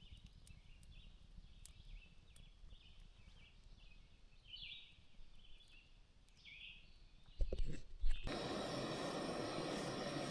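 Night chorus of small animals, many short high chirps repeating quietly. Two thumps come about seven and a half seconds in, then the sound cuts abruptly to a steady, louder hiss.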